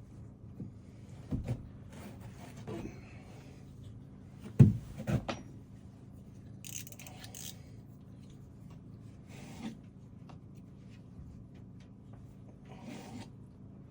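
Wooden cabinet doors and woodwork being handled: a series of knocks and clunks, the loudest about halfway through, with a few short scraping or rustling sounds. A steady low hum runs underneath.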